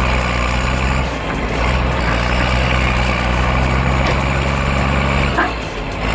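Heavy diesel engines of earthmoving machines running steadily, with a brief dip about a second in and a change in the engine note near the end.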